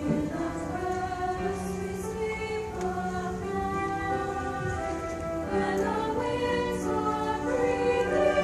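A school choir singing in several parts, holding long sustained notes that move together from chord to chord.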